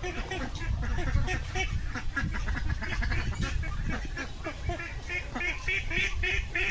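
A flock of ducks quacking continuously, many short calls overlapping with no pause, over a steady low rumble.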